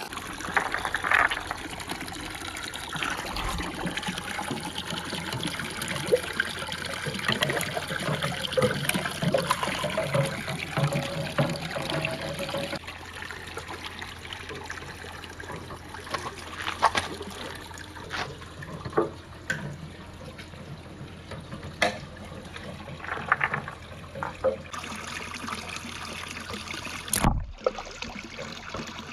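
Water trickling and running along a handmade marble run track, with marbles clicking and knocking against it now and then.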